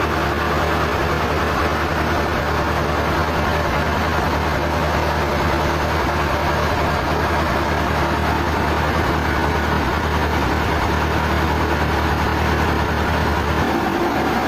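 Sawmill machinery running steadily: a loud engine-like hum under a broad hiss. Near the end the low hum drops away and the pitch shifts.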